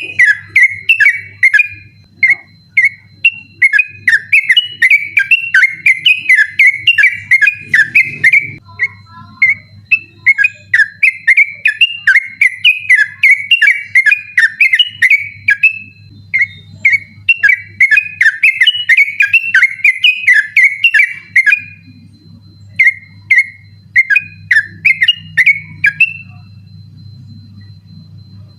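Yellow-vented bulbul (trucukan) singing a fast, unbroken run of bubbling, warbling notes (the 'ropel' style) in long phrases with short breaks, stopping about 26 seconds in. A steady low hum runs underneath.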